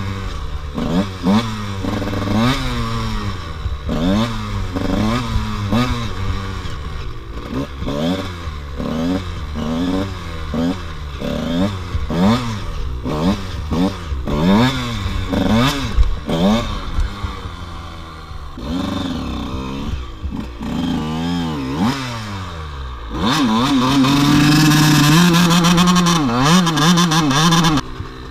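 KTM 85 two-stroke dirt bike engine revving up and falling back again and again, about once a second, as the throttle is worked. Near the end it is held high and steady for several seconds before dropping off.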